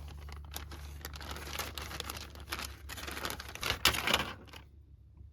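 Crinkling and rustling of packaging being handled, irregular, with a louder burst near the end before it stops about four and a half seconds in.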